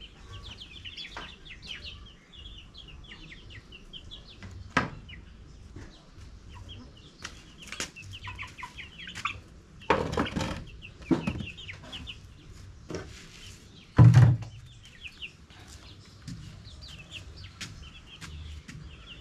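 Chickens clucking, with a steady run of short, high chirps. A few loud knocks stand out, the loudest about fourteen seconds in.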